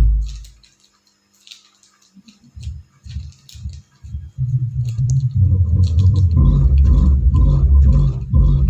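Bass-heavy music played through a home-theatre subwoofer and speakers, with the bass dying away just after the start, near silence for about a second, then bass notes returning and building to a steady, heavy low thump from about four seconds in.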